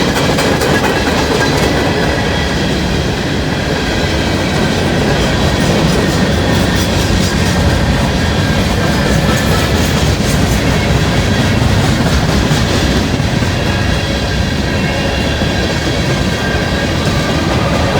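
Freight cars of a Norfolk Southern mixed manifest train rolling past close by: a steady rumble and clatter of steel wheels on the rails, with thin high squealing tones from the wheels.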